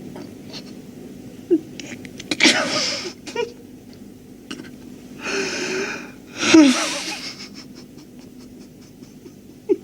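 A man sobbing in grief: three heaving, breathy sobs and gasps, the last with a falling cry.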